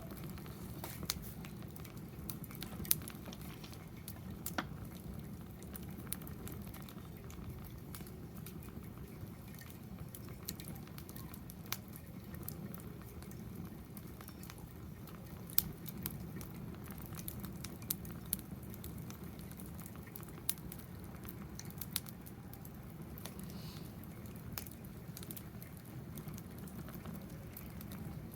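Wood fire in a fire pit crackling, with irregular sharp pops over a steady low rumble.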